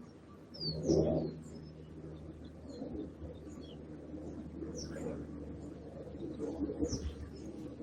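Birds chirping faintly, with short high chirps scattered throughout. A louder low sound comes about a second in.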